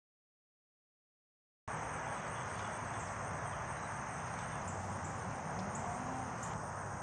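Dead silence for under two seconds, then steady outdoor ambience in which insects, crickets by the sound of it, trill high and constantly over a low background rumble.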